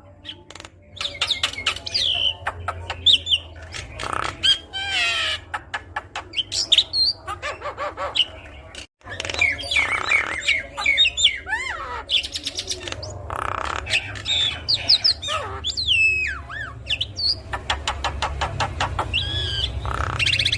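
Javan myna chattering in full song: a varied run of whistles that slide up and down, harsh squawks and fast rattling clicks, over a low hum. The song cuts out briefly about nine seconds in.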